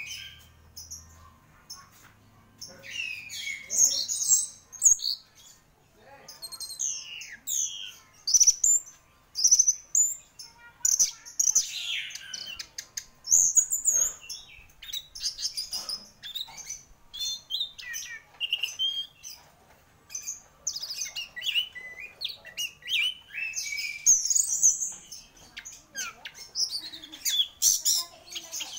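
Orange-headed thrush (anis merah) in full, continuous song: a long run of quick, high, varied whistled and chattering phrases that come in bursts with brief pauses.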